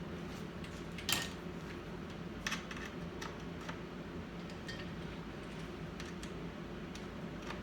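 Scattered, irregular light clicks and taps of small tools and computer parts being handled, the sharpest about a second in, over a steady low hum.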